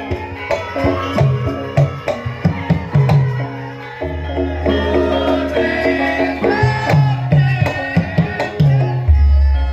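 Javanese gamelan accompanying lengger dance: hand-played kendang drum strokes over pitched bronze metallophones, with a deep gong stroke about four seconds in and another near the end.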